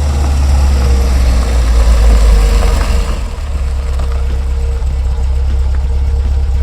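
A car engine running steadily with a low sound, a little louder in the first three seconds before settling.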